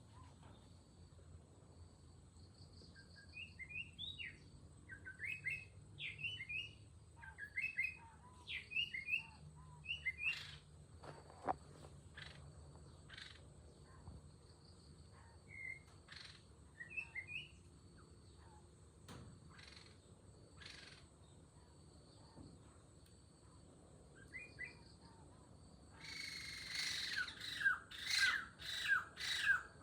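Small birds chirping in short, scattered bursts over a faint steady high whine. Near the end a louder bird call repeats quickly, each note falling in pitch.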